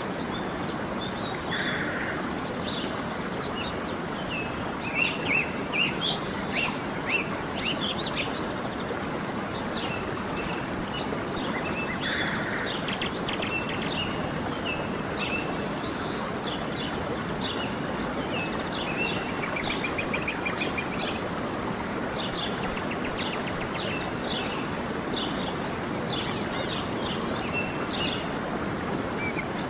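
Steady rushing of a stream with many small birds chirping and trilling over it, their calls coming close together throughout.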